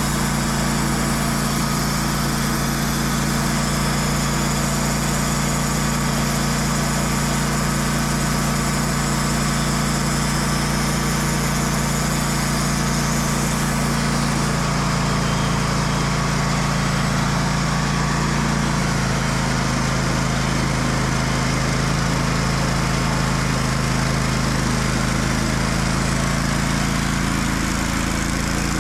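Portable band sawmill running steadily: its engine drones while the water-lubricated blade cuts through a large oak log.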